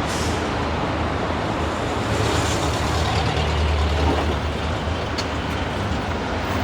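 Engine and road noise of a red Thai songthaew pickup truck on the move: a steady low rumble with road noise, swelling about three to four seconds in.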